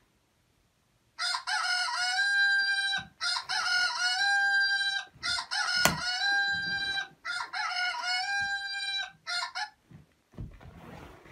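A rooster crowing four times in quick succession, each crow about two seconds long, followed by a short clipped fifth call. A sharp click falls during the third crow, and faint rustling follows near the end.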